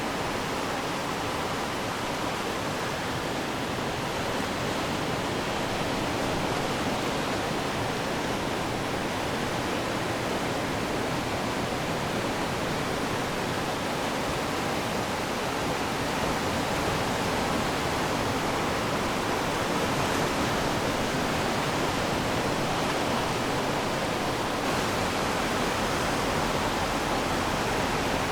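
Ocean surf washing steadily onto the shore: an even, continuous rush with no single wave crash standing out, growing slightly louder over the stretch.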